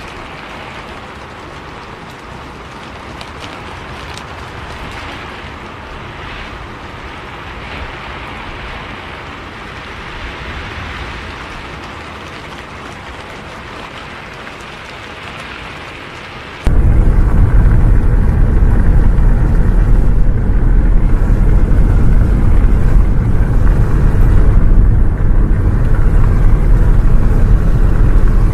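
Steady rain hiss, then a little over halfway through a sudden switch to a much louder low rumble of a bus driving in the rain.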